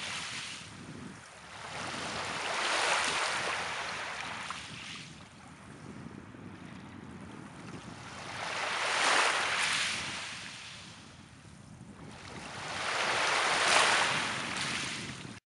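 Sea waves washing onto the shore: three slow surges of surf, each swelling and fading over several seconds, about five to six seconds apart. The sound cuts off suddenly at the end.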